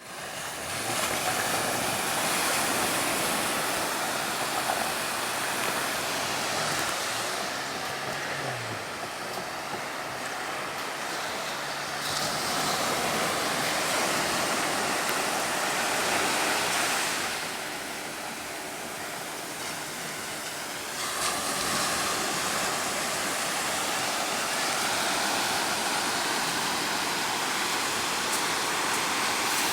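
Sea surf washing onto a beach, a steady rushing noise that shifts abruptly in level and tone a few times.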